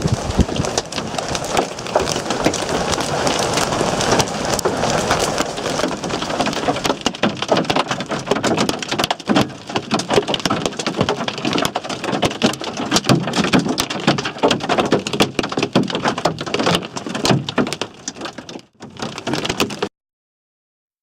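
Large hailstones and rain pelting down, a dense, irregular clatter of hard impacts over a steady hiss of heavy precipitation. The sound cuts off abruptly near the end.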